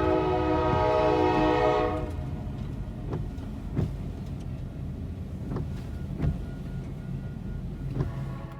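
Train horn sounding a steady chord for about two seconds, then the low rumble of a passing train with irregular clanks of wheels over the rail joints.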